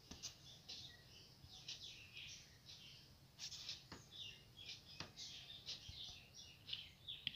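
Faint bird chirping: many short, high calls in quick clusters. There are a couple of soft clicks about four and five seconds in.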